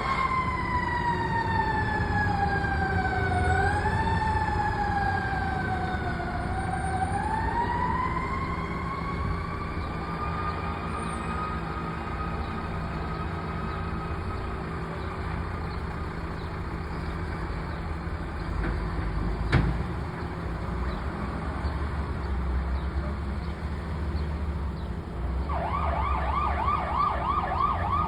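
Fire apparatus siren wailing with heavy engine rumble beneath. The wail slides slowly down in pitch, wavers, then climbs back up and holds. A single sharp knock comes about two-thirds through, and near the end a second siren starts a fast yelp.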